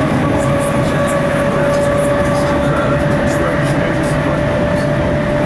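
Inside a Class 455 electric multiple unit running at speed: steady ride noise of the wheels on the track, with a steady whine over it.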